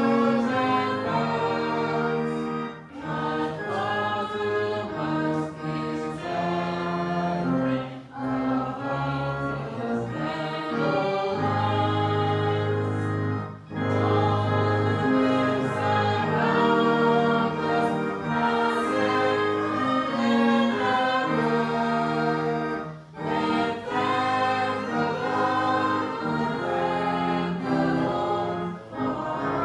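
A church congregation singing a hymn together, in sustained phrases with brief pauses between the lines.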